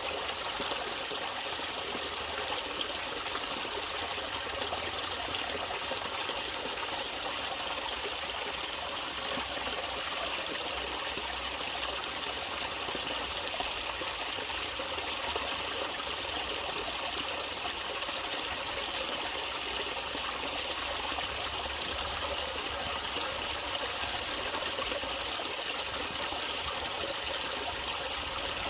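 Natural running water, a stream trickling and flowing steadily.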